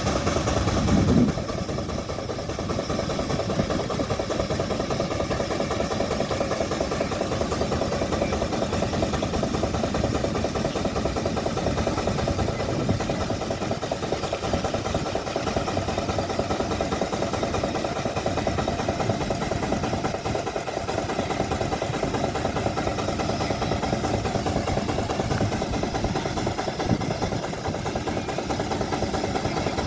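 Russell steam traction engine running steadily under load on a prony brake, with a fast, even exhaust beat. A louder sound lasts for the first second or so.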